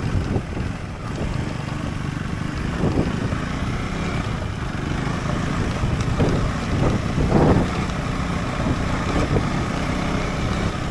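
Husqvarna Svartpilen 401's single-cylinder engine running as the motorcycle rides along, under a steady low rumble of road and wind noise, with a few swells in engine note about two thirds of the way in.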